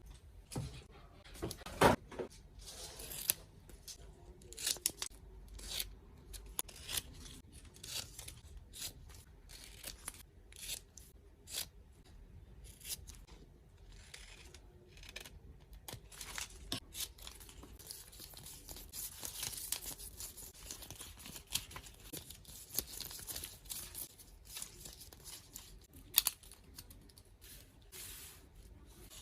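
Hands working with tape and paper at close range: tape peeled from the roll and torn, scissors snipping and paper rustling, in a string of short, sharp strokes with a few longer peeling stretches.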